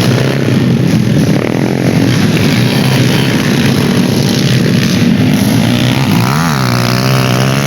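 Motorcycle engines running steadily, with one brief rev that rises and falls about six and a half seconds in.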